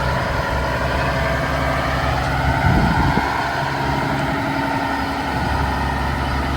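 Vintage truck engine running steadily at low revs, briefly louder about three seconds in.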